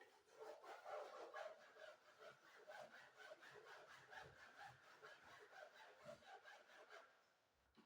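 Rapid back-and-forth scrubbing strokes on sofa upholstery, several a second, stopping shortly before the end.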